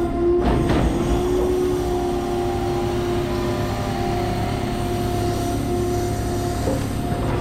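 Grapple crane machinery running steadily: a constant engine rumble with a steady whine on top, and a brief rush of noise about half a second in.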